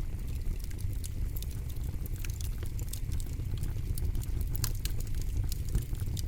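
Campfire burning: wood crackling and popping in many quick, irregular snaps over a low, steady rumble of flames.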